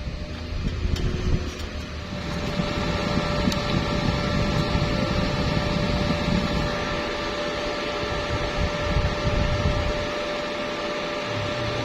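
Stick-welding arc burning with a steady hiss that builds up about two seconds in, over a steady tone.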